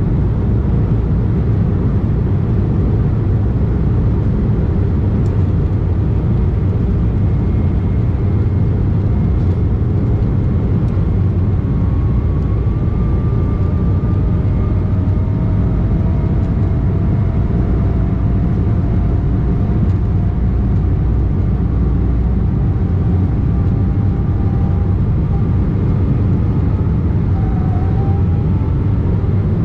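Steady noise of an Embraer E190 jet airliner heard from inside the passenger cabin: a dense low rush of its two General Electric CF34 turbofans and airflow, with faint tones slowly rising in pitch from about halfway through.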